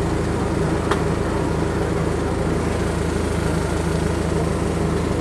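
Courtesy tram's engine idling steadily while the tram stands at the stop, with one short click about a second in.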